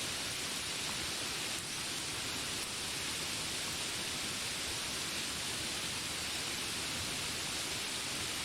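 Steady rain falling as an even, unbroken hiss, with no separate drops or animal calls standing out.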